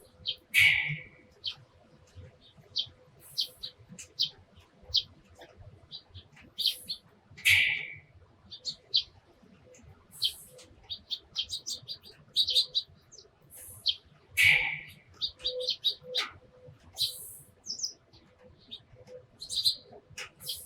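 Eurasian tree sparrows chirping: many short, quick chirps, with a few louder calls about a second in, about seven seconds in and about fourteen seconds in.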